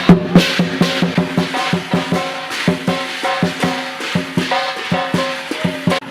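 Chinese lion dance percussion music: a drum struck in a fast, even beat, about five strikes a second, with ringing pitched percussion over it.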